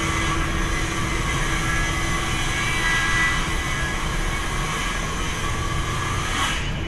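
Steady outdoor mechanical rumble with a rushing hiss, like distant engine noise, which cuts off suddenly near the end.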